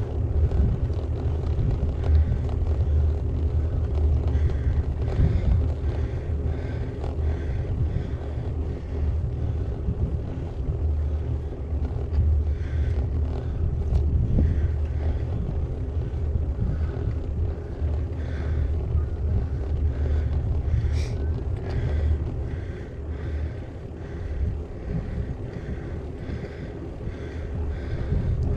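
Wind buffeting the microphone over a steady low rumble of a gravel bike's tyres rolling on tarmac. A brief sharp high sound cuts in about two-thirds of the way through.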